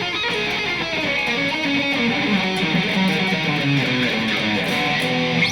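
Electric guitar played through the bridge pickup: a picked rock riff of changing single notes and chords, stopping abruptly at the end.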